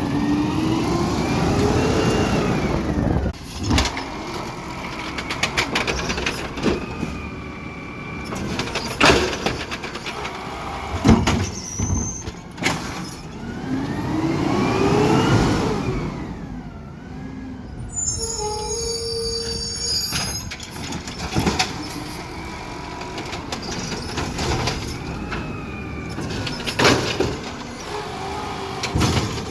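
Garbage truck's diesel engine revving up and back down twice, each time over a couple of seconds, among repeated metallic clanks and bangs.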